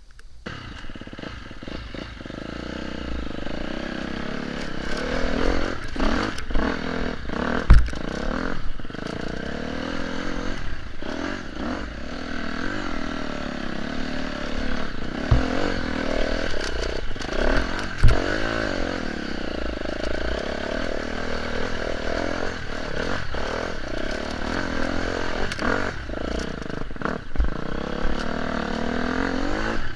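Off-road motorcycle engine running and revving up and down as the bike rides a rough forest track, with occasional sharp knocks and clatter.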